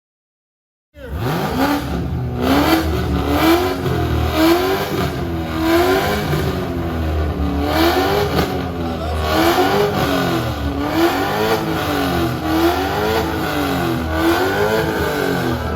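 Performance car engine revved over and over through a loud exhaust, its pitch rising and falling about once a second, starting about a second in.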